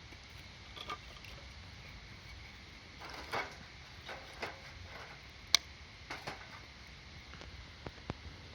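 Wood campfire crackling, with scattered small pops and one sharp, loud pop about five and a half seconds in.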